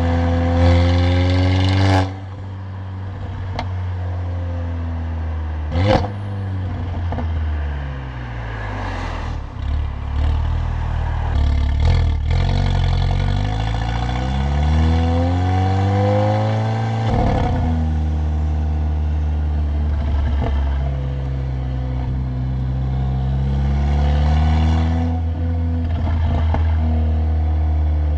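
Stage 2 tuned Mercedes-AMG CLA45's turbocharged four-cylinder engine and loud exhaust under way, the revs rising and falling several times with sudden drops. There is a sharp crack from the exhaust about six seconds in.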